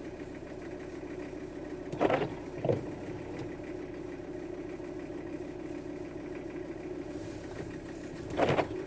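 Van engine running steadily, heard from inside the cab while driving, a constant low hum with a steady tone in it. Two short louder sweeping sounds break through, one about two seconds in and one near the end.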